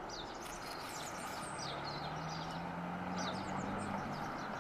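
Birds chirping: many short, high calls scattered throughout, over a steady low hum and background noise.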